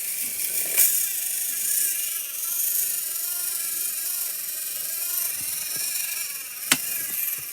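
Small battery-powered motors of two toy trains whirring steadily as the engines push against each other on the track, with a sharp click just under a second in and another near the end.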